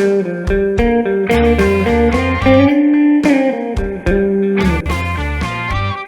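Lead guitar solo over a karaoke backing track, single notes with several string bends, with a bass line and beat underneath.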